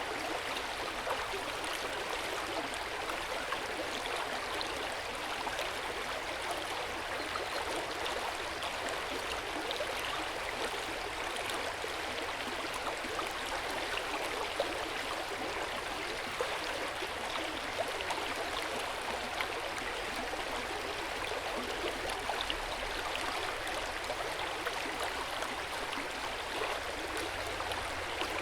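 Hot spring water pouring and trickling steadily into an open-air bath, a continuous splashing and gurgling of flowing water with small flickering droplet splashes.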